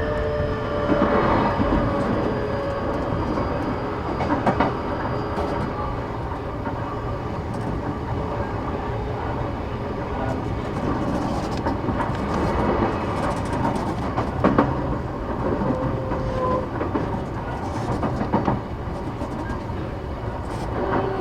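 Inside an E233-8000 series electric train running on the line: a steady rumble of wheels on rail with scattered clicks from rail joints. A faint VVVF inverter motor whine dies away in the first few seconds and a pitched motor tone comes back near the end.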